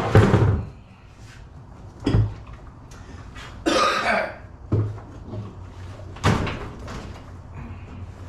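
Knocks and thumps from handling washing-machine parts, four of them spaced a second or two apart, with a short rasping noise about halfway through.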